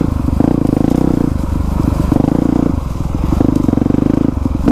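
Dirt bike engine under way, the throttle opened and closed in pulses about every second as it is ridden over rough ground.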